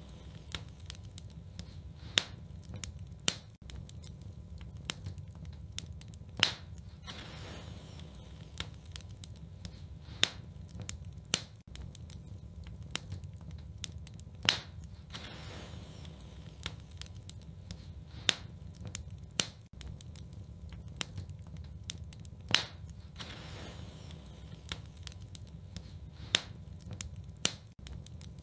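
Fireplace fire crackling: irregular sharp pops and snaps over a low steady rumble, with a couple of brief soft rushing swells.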